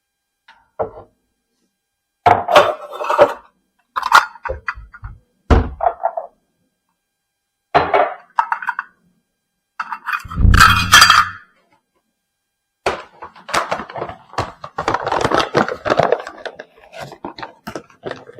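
Kitchen handling sounds while cornmeal is measured out: a measuring cup and containers knocking, thunking and clinking in a series of separate bumps. About two thirds of the way through comes a denser run of clatter and scraping.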